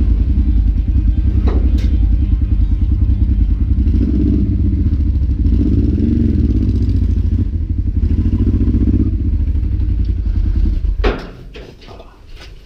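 Honda motorcycle engine running with a steady pulsing beat, its pitch rising and falling slightly around the middle; it stops abruptly about eleven seconds in, followed by a few sharp clicks.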